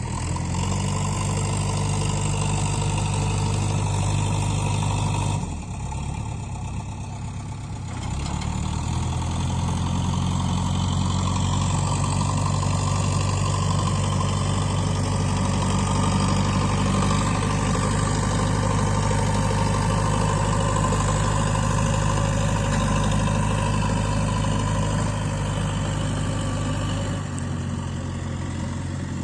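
Heavy diesel engine running steadily, easing off about five seconds in and picking up again about three seconds later.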